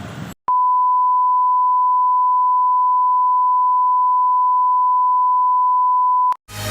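A single long electronic beep at one steady pitch, starting about half a second in and cutting off abruptly after roughly six seconds. Street noise stops just before it, and electronic dance music starts right after it.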